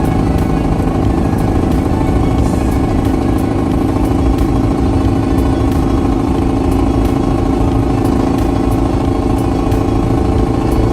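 Steady engine and road drone of a vehicle cruising at a constant speed.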